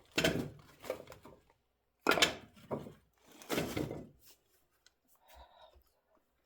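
Three short scraping, rustling noises of something being handled or pushed, each about half a second long, the first near the start, then about two seconds in and about three and a half seconds in; fainter knocks follow.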